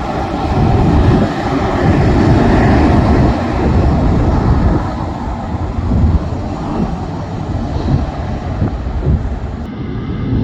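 Jet airliner engines during takeoff: a loud, steady low rumble that rises and falls.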